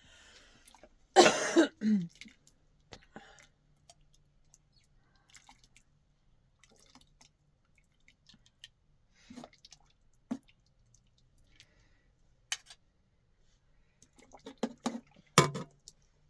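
A woman's single cough about a second in, then scattered small clinks and taps of dishes and utensils, bunched near the end.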